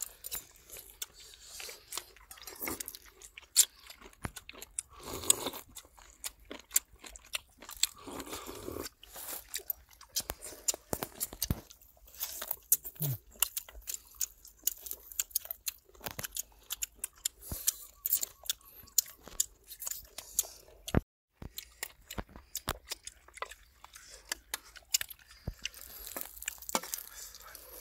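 People eating at close range: chewing and crunching, with many irregular clicks and crunches.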